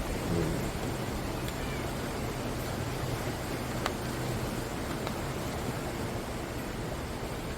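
Ocean waves breaking on the shore: a steady rushing surf, with a faint single click about four seconds in.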